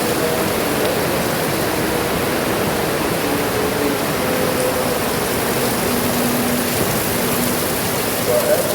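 Heavy rain falling steadily, an even hiss at a constant level.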